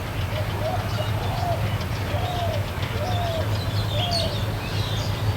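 A dove cooing in short calls repeated about once a second, over a steady low rumble, with small birds chirping faintly.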